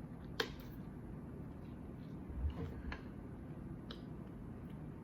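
A few faint clicks and soft crackles of crawfish shells being handled and eaten, spaced out over quiet room tone.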